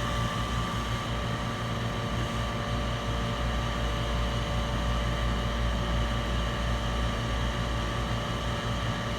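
Steady machine hum from a fan or motor, with a low drone and faint high steady whine that hold unchanged throughout.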